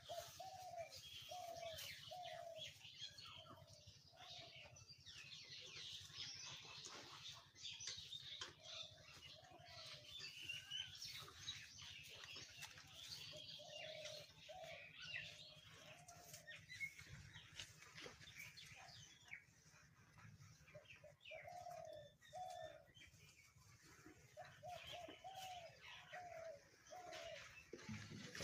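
Birds chirping, with a repeated short call in runs of several notes about two a second.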